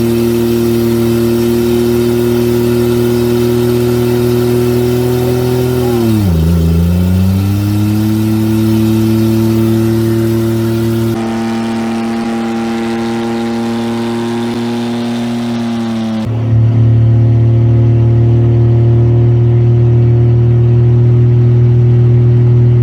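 A Buick Century's engine is held at high, steady revs. About six seconds in the revs drop sharply for a moment, then climb back and hold again.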